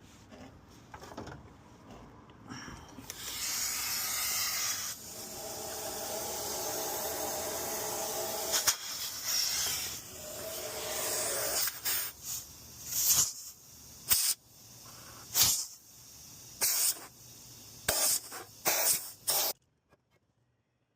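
Nitrogen hissing as it is blown through the refrigerant lines and thermostatic expansion valve (TXV): a steady rush of gas with a faint whistle for several seconds, then a series of short spurts that stop abruptly.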